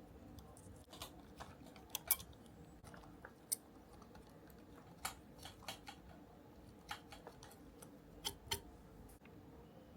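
Small, sharp clicks and taps at irregular intervals, of hand tools and small kit parts being handled during model assembly.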